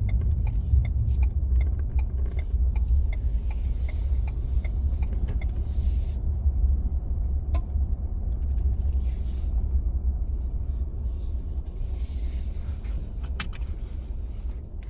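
Steady low rumble of a vehicle driving, with a few faint ticks and one sharp click near the end.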